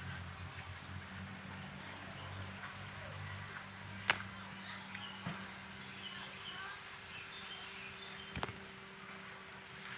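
Faint outdoor background noise broken by two sharp clicks or knocks, about four seconds in and again near the end, with a smaller one in between.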